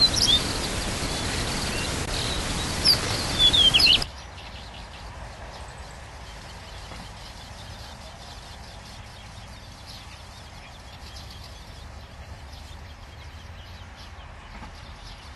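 Wild bird calls: a few short, sharp chirps over a steady hiss of outdoor noise. About four seconds in, the sound cuts abruptly to a much quieter outdoor background.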